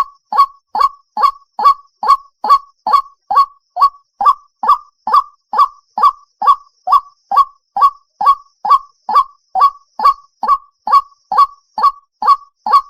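White-breasted waterhen call, the same short note repeated about two and a half times a second at an unchanging pace with clean silence between notes, as in a looped lure recording used to draw waterhens out of cover.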